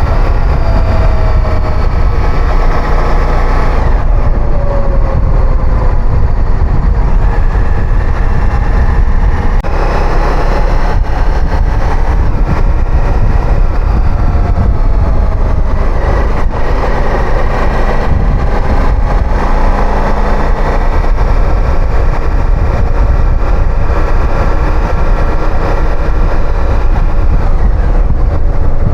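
Motorcycle engine running while riding, its pitch sliding up and down with the throttle, under heavy low wind rumble on the microphone.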